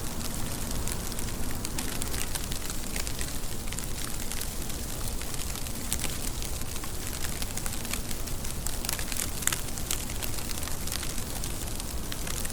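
Steady rain falling: an even hiss with many sharp drop ticks.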